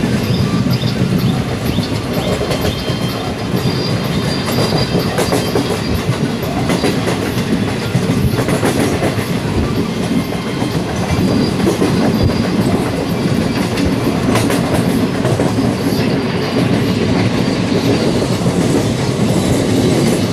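A train running on the rails: a steady rumble with frequent clicks and clatter from the wheels.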